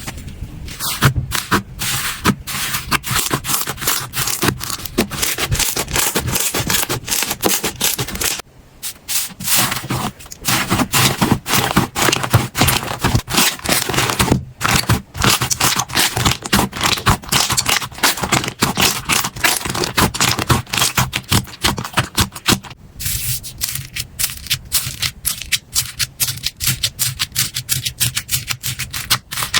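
Hands squeezing and pressing slime: a dense, continuous run of sticky crackles and pops, breaking off briefly a few times.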